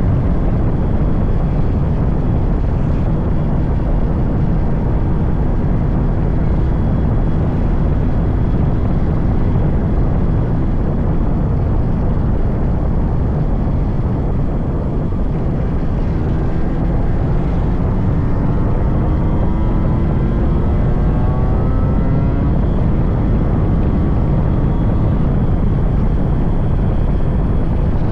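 Yamaha RX100's 98cc air-cooled two-stroke single-cylinder engine running while the motorcycle is ridden, under a heavy rush of wind on the microphone. About two-thirds of the way through, the engine note rises for several seconds as the bike accelerates, then sinks back into the wind noise.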